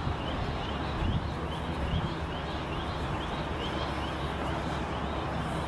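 Helicopter flying overhead: a steady drone of engine and rotor noise, with a faint high chirp repeating about twice a second.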